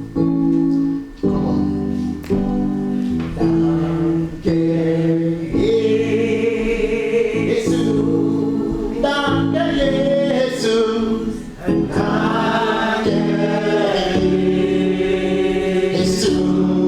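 Gospel choir singing in harmony over sustained instrumental chords.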